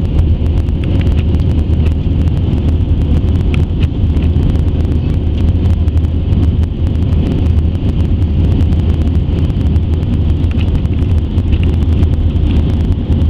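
Steady low rumble of an Airbus A320's CFM56 jet engines and the rushing air around the airliner in flight, heard from inside the cabin, with a faint steady whine above it.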